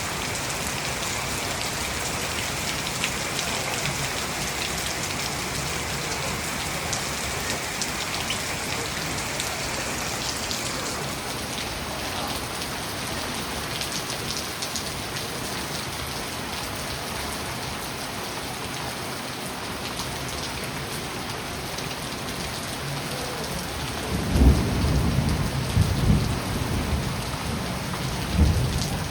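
Steady rain falling, with distant thunder rumbling in several low surges near the end.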